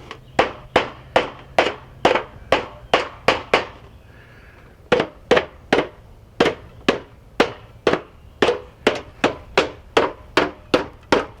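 Hammer blows, about two to three a second in a steady rhythm, stopping for about a second and a half near four seconds in, then resuming.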